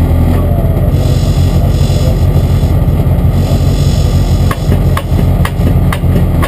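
Renault Clio 3 R3 rally car's four-cylinder engine idling steadily, heard loud from inside the stripped cabin. Near the end, five sharp knocks come about half a second apart.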